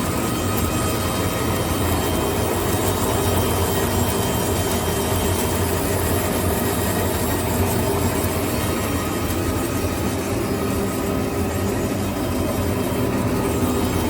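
Wooden BBQ stick sharpening machine running at high speed: steady, unbroken mechanical noise with a few constant tones through it.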